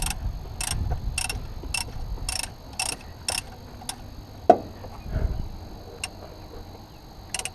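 Ratchet spanner clicking in short, slightly uneven strokes, about two clicks a second, as a bolt on the alternator is worked. It stops a little before halfway, followed by a single sharp knock of metal and one more click near the end.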